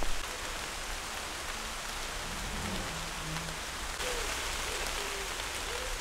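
Steady rain falling, an even hiss of drops, growing slightly louder about four seconds in.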